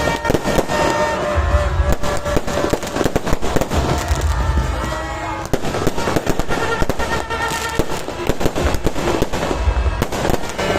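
Fireworks going off in quick, irregular succession: sharp cracks and pops throughout, with deep booms about a second and a half in, around four to five seconds in, and near the end. Loud music plays underneath.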